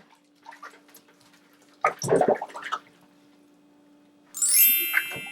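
Bath water splashing briefly about two seconds in, over a steady low hum. Near the end a bright chime rings out and slowly fades.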